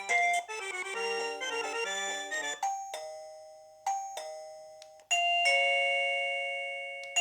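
Electronic doorbell chime playing its ring tunes: a quick melody of electronic notes that stops about two and a half seconds in, then a two-note ding-dong three times, each pair falling in pitch and ringing out, the last the longest.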